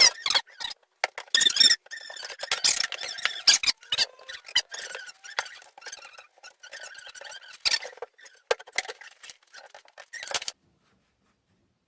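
Squeaking with many irregular sharp clicks and knocks from the prehung door and its frame being worked and fitted. It stops abruptly about ten and a half seconds in.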